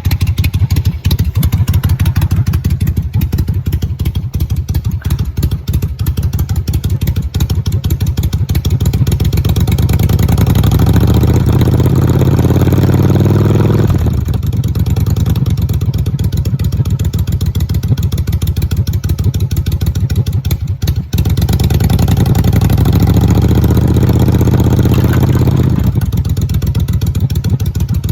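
A 1999 Yamaha Virago XV1100S air-cooled V-twin with a short ram intake, running on choke just after a cold start in freezing weather. It is revved twice, each time climbing for a few seconds and then dropping back to a rough fast idle, which the owner judges okay for a cold day.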